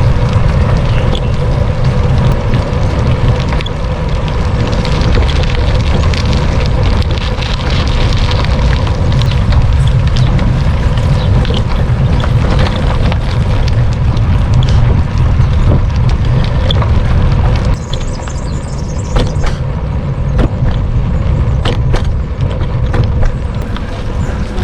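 Wind buffeting the microphone of a camera riding on a moving bicycle, a loud low rumble over city traffic, with short knocks and rattles from bumps in the road. The rumble eases somewhat about three-quarters of the way through.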